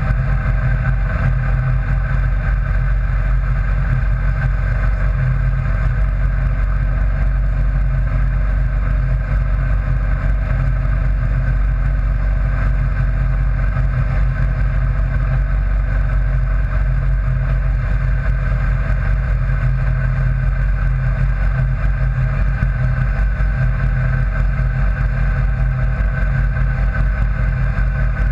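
Vehicle engine running at a steady cruising speed, heard from on board as a loud, even drone with a strong low rumble and no change in pitch.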